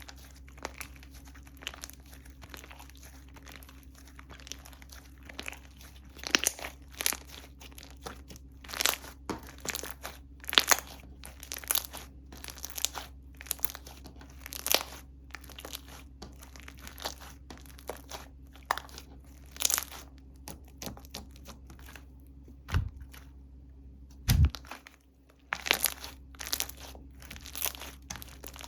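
Slime being stretched and pressed by hand, giving irregular sticky pops and crackles that come thicker after the first few seconds. Two dull thumps come about three-quarters of the way through.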